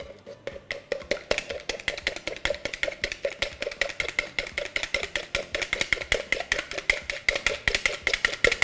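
An egg being whisked in a bowl: quick, even clinks of the utensil against the bowl's side, about eight a second, each with a short ring from the bowl.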